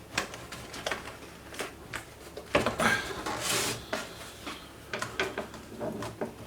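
Packaging being handled and worked loose by hand: scattered knocks, clicks and scrapes, with a longer rubbing scrape about halfway through.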